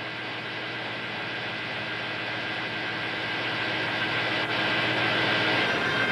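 Power saw on a home-made strip-shaping machine running steadily while a cedar canoe strip is fed through and cut to shape against a pattern; the sound builds gradually as the cut goes on.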